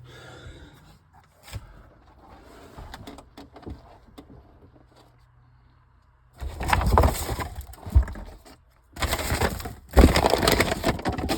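Hands rummaging and scraping around the cramped rear interior of a car, feeling for a trunk release. After a quieter start with a few faint clicks come two loud stretches of scraping and rustling, with knocks and cracks against trim and panels.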